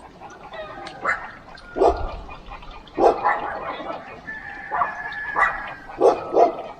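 Animal calls: a series of short, sharp pitched calls, about seven in all, with one longer held call in the middle.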